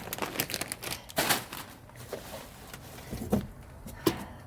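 Rustling and clattering of a plastic bag and packaged items being pulled about in a dumpster, in quick irregular clicks and crinkles that are busiest in the first second and a half, then a few scattered knocks.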